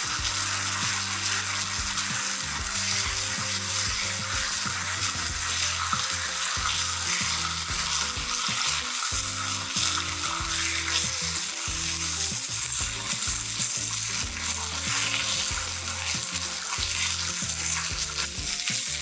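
Oiled peach halves sizzling steadily on a hot ridged griddle pan.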